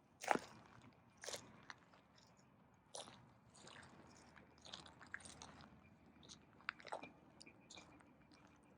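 Faint footsteps crunching on loose ground, an uneven step about every second, the first one the loudest.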